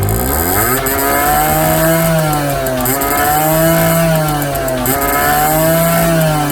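Kawasaki KSR-1's two-stroke single engine running, its pitch rising over the first second, then revving up and dropping back about three times.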